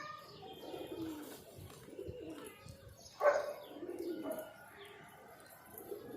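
Domestic pigeons cooing: soft, low, rolling calls, with a louder, sharper sound about three seconds in.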